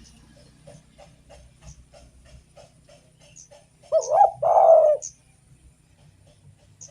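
Spotted dove cooing: a loud two-part coo, a short bending note and then a longer held one, about four seconds in. Faint, evenly spaced soft notes, about three a second, come before it.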